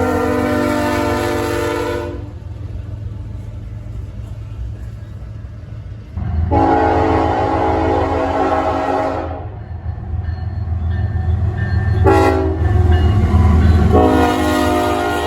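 Diesel locomotive's multi-chime air horn sounding a long, long, short, long sequence, the grade-crossing pattern. A low diesel engine rumble runs underneath the blasts as the train pulls away.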